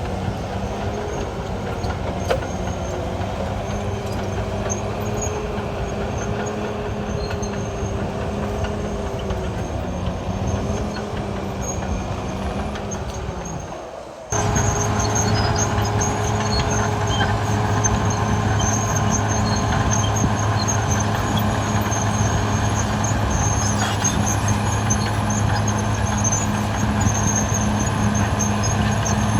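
Caterpillar D6R XL bulldozer's diesel engine running steadily under working load, with a wavering whine over the engine's drone. About halfway through the sound dips for a moment, then comes back louder.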